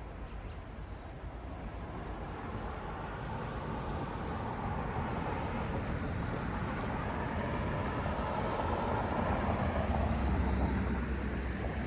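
MBTA commuter rail train running, a steady rumble of engine and wheels that grows gradually louder, with the low rumble strongest near the end.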